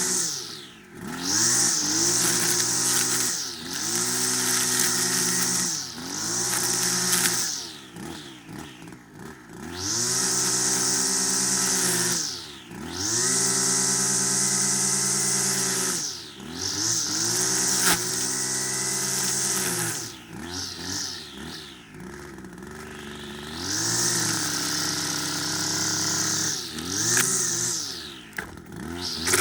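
Kawasaki KGT27C string trimmer's two-stroke engine being throttled up again and again: each time it climbs to a high, steady full-throttle pitch, holds for one to a few seconds, then drops back to a low idle.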